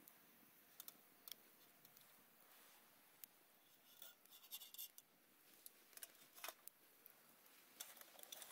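Faint scattered clicks and a brief patch of scratchy rustling about halfway through, over otherwise quiet background.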